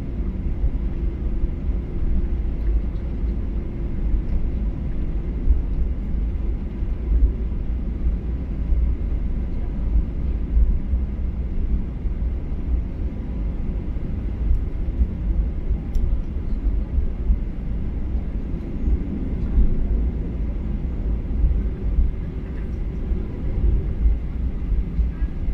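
Steady low rumble inside the cabin of a Boeing 737-800 on the ground, its CFM56-7B engines running, with a faint steady hum over it.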